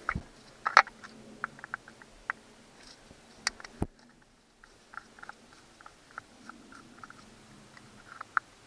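Scattered small clicks and taps from handling the parts of an outboard motor's remote control box during disassembly, with a sharp knock about a second in and two more a little after the middle.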